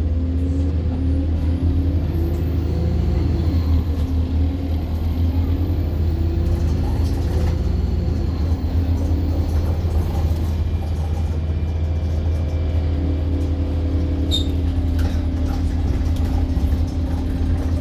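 Inside a moving London bus: the diesel engine and the body give a steady, deep rumble, and the engine note rises and falls in the first few seconds before settling. A few brief clicks or rattles come about three quarters of the way through.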